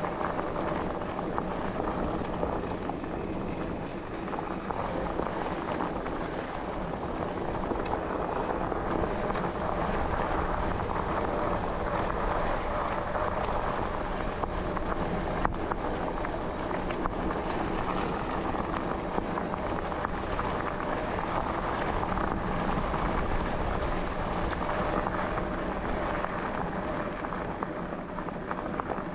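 Steady rolling noise of a bike being ridden along a track: tyres running over the ground, with a faint steady hum underneath.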